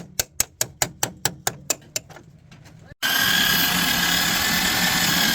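Rapid sharp tapping, about five strokes a second, fading out about two seconds in; then, after an abrupt cut about three seconds in, a power tool running steadily with a high whine.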